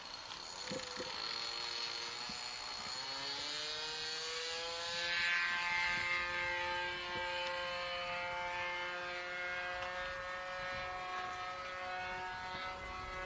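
OS 60 FP two-stroke glow engine of a radio-control model plane running at high throttle in flight. Its buzzing pitch climbs about three seconds in, grows loudest a couple of seconds later as the plane passes, then holds steady.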